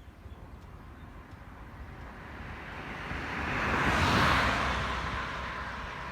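A vehicle passing by: a rushing noise that rises to a peak a little after four seconds in and then fades away.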